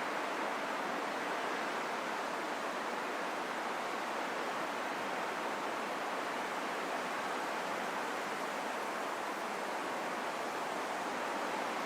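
Steady rushing wind: an even, unbroken hiss held in the middle range with almost no low rumble, its level barely changing.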